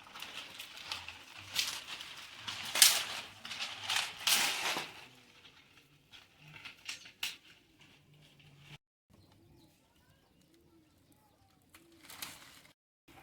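A bird: noisy flapping or rustling bursts through the first five seconds, then faint low calls later on.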